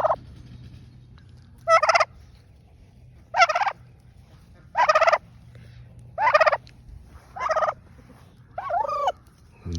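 Domestic turkey gobbling over and over: six short, rattling gobbles about a second and a half apart.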